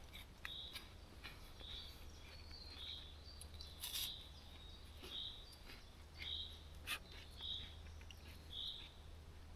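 A bird repeating a short, high call about once a second, faint, with a few sharp clicks.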